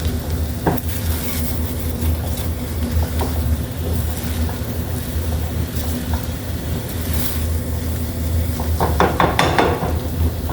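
Scrambled eggs sizzling in butter in a frying pan while being stirred with a spatula, with small clicks of the utensil on the pan and a short burst of scraping about nine seconds in. A steady low hum runs underneath.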